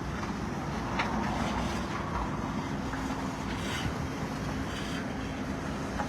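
Inside a Toyota RAV4 moving slowly: steady engine hum and road noise, with a couple of faint clicks.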